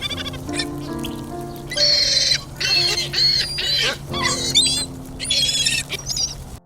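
Several short bursts of an animal's high-pitched warbling, chirping calls over soft keyboard background music, cutting off abruptly near the end.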